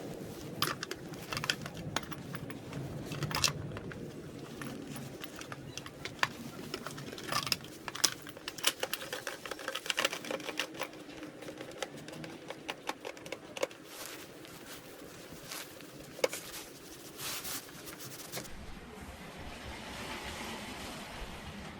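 Hand tools clicking and clinking on metal as the clutch cover of a motorcycle engine is worked on and bolted up, in irregular runs of sharp ticks, then a soft steady hiss near the end.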